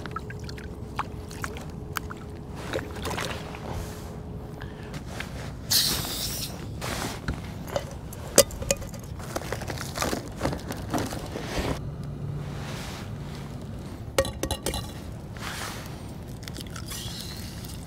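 Scattered clicks, knocks and scrapes of gear being handled aboard a kayak, with a short hiss about six seconds in and another near the end.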